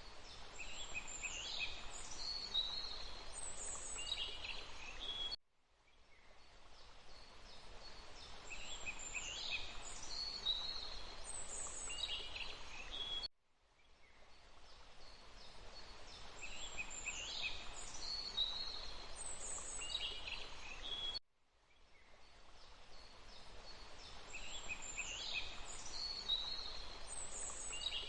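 Forest birds chirping and calling over a steady rushing hiss. The same roughly eight-second loop repeats three times, with a brief dropout between repeats.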